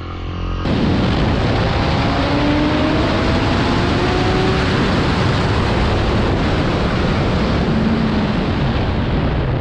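Heavy wind rush over a helmet-mounted camera's microphone as a superbike rides at speed, with the engine's note faintly audible underneath, rising slowly a few seconds in as it accelerates. The noise starts abruptly less than a second in.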